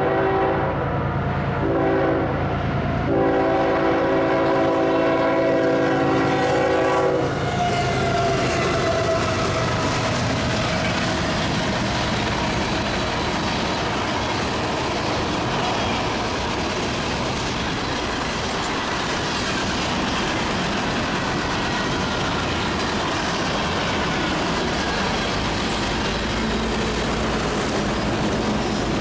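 A CSX diesel freight locomotive's air horn sounds three blasts, the last about four seconds long and ending about seven seconds in. Then comes the steady noise of the locomotives and freight cars rolling past on the rails.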